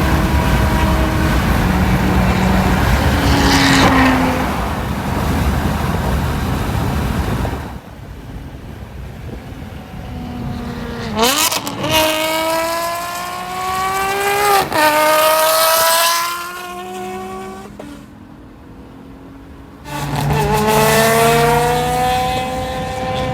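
Ferrari 599's naturally aspirated 6.0-litre V12, breathing through headers and a full race exhaust, being run hard. It opens with a loud, dense stretch; about halfway through the revs snap up sharply and climb, break for a quick shift and climb again, then drop away. The revs rise again near the end.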